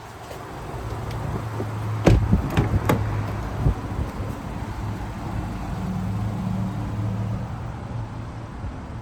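A steady low hum from the 2016 Mazda CX-5, with three sharp knocks about two to three seconds in.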